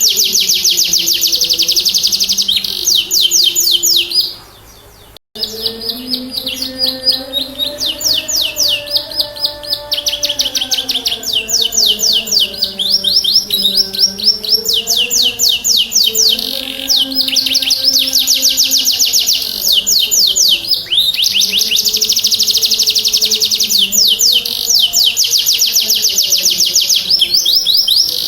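Domestic canary singing in long rolls of rapid, repeated high notes, a loud 'gacor' lure song used to set silent canaries singing. The song breaks off briefly about four seconds in, and a faint low wavering tone runs beneath it from about five seconds on.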